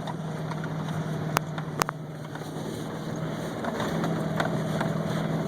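Pickup truck engine running at a steady speed in four-wheel-drive low, with two sharp knocks about a second and a half and two seconds in.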